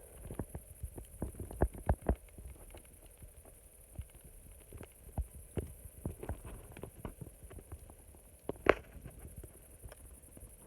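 Campfire crackling: irregular sharp pops and snaps, with one louder crack near the end.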